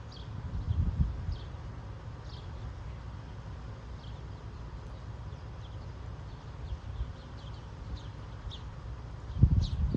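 Finches chirping in short, scattered high chirps, a few at a time, over a steady low rumble that swells briefly just after the start and again near the end.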